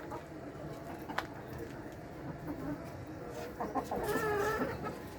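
Layer hens clucking, with one longer, wavering call about three and a half seconds in and a sharp click about a second in, over a steady low background noise.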